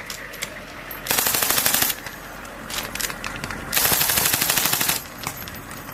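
Pneumatic rivet gun hammering aircraft rivets in bursts of rapid strikes: a long burst about a second in, a few short bursts, then a longer burst at about four seconds.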